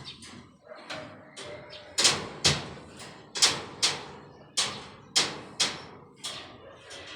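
Hammering: a run of sharp blows, roughly two a second, with a few fainter knocks in the first two seconds.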